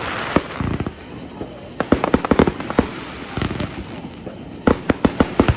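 Fireworks exploding: clusters of sharp bangs and crackles, with a burst at the start, another about two seconds in and a dense run of bangs near the end.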